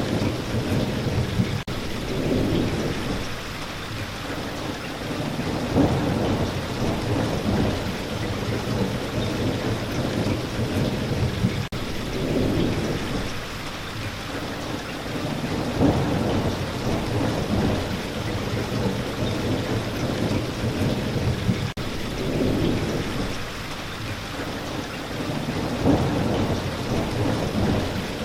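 Steady rain, with low rolling thunder rumbles that swell and fade every few seconds.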